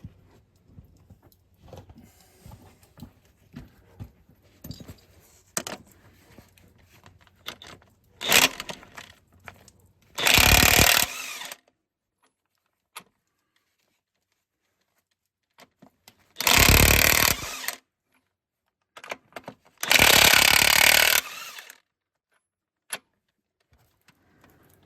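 Power impact wrench run in three short bursts of a second or two each, spinning the nuts off the connecting-rod and main bearing caps of a Caterpillar D3400 diesel engine. Light clinks and knocks of tools on metal come before the first burst.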